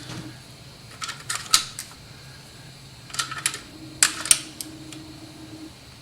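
Clusters of sharp metallic clicks and taps from small sheet-metal parts of a toy pop gun being worked while a rivet is fitted at a hinge point, in two bursts about a second in and three to four seconds in, over a faint steady hum.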